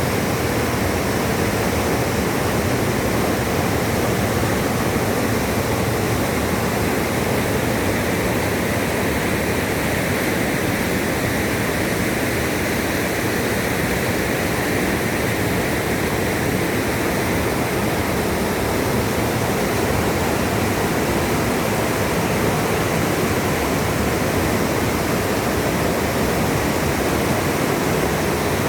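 Waterfall on a river: a steady, loud rush of falling water with no breaks or changes.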